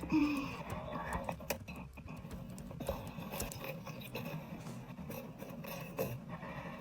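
Faint audio of an adult video played back through computer speakers: soft, irregular wet mouth sounds and clicks, with quiet classical music underneath.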